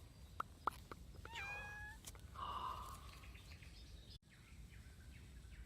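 Animal calls in a garden: two sharp short notes, then a drawn-out call of several stacked tones, then a louder rougher call about two and a half seconds in. The sound cuts out completely for an instant just after four seconds.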